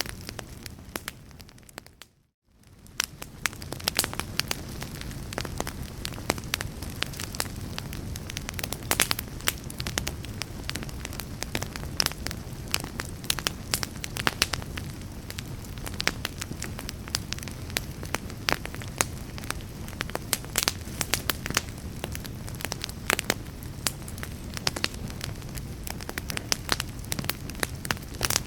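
Wood fire in a fireplace crackling and popping, with many irregular sharp snaps over a steady low rush of flame. About two seconds in it fades briefly to near silence, then comes back.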